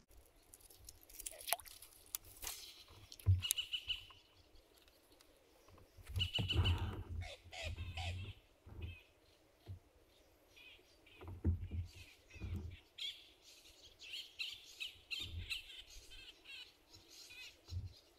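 Wild birds chirping and calling in short phrases, with a few low thumps and clicks in between.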